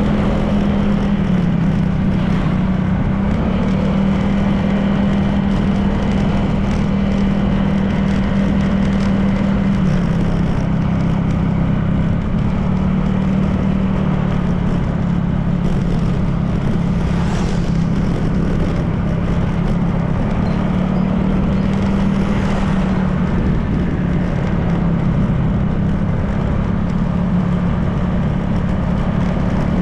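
Honda PCX 160 scooter's single-cylinder engine running at a steady cruising speed, its pitch easing down and back up a little several times, under wind and tyre noise. Brief hisses about two-thirds of the way through.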